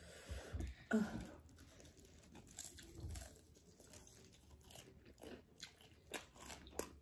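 Close-miked mouth sounds of a person biting and chewing seasoned chicken wings: scattered wet clicks, lip smacks and small crunches.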